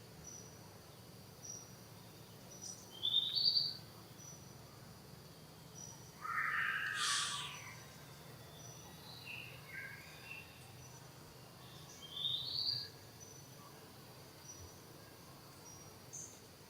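High-pitched animal calls: a short rising chirp twice, and one louder, longer call about six seconds in, with a few small chirps after it.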